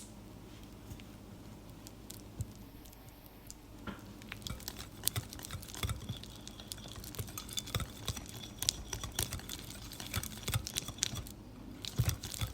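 A kitchen utensil working softened butter in a mixing bowl, making many quick small clicks and taps that start about four seconds in.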